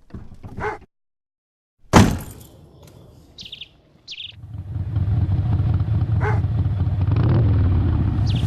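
A loud sharp hit about two seconds in that dies away, two short bird chirps, then from about four seconds in a steady low rumble that grows louder and holds.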